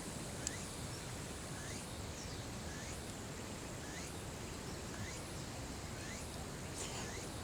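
Quiet outdoor campsite ambience: a steady background hiss with a faint, short rising chirp from a small animal, repeated about once a second.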